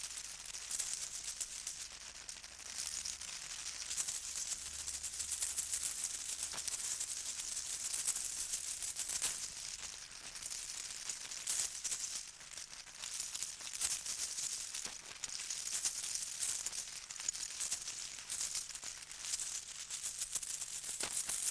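A shaken rattle played as primitive percussion: a continuous dense rattling that swells and eases in waves, with occasional sharper clicks.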